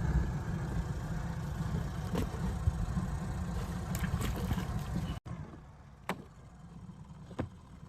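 A small boat's motor runs with a steady low rumble, then stops abruptly about five seconds in. After that it is quieter, with two light knocks.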